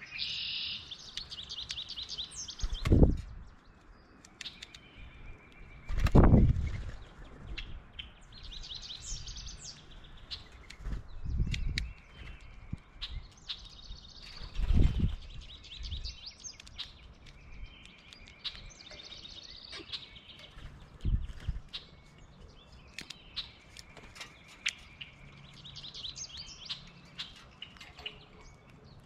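Small birds chirping and twittering in short repeated bursts, with scattered sharp taps and several loud low thumps, the strongest about 3, 6 and 15 seconds in.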